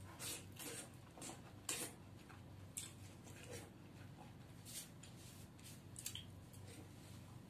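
Cooked drumstick (moringa) pods being chewed and sucked in the mouth: short, irregular wet smacks and squelches.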